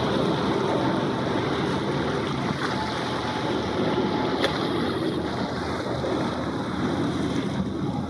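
Steady outdoor wind noise rushing on the microphone, with a single faint click about halfway through.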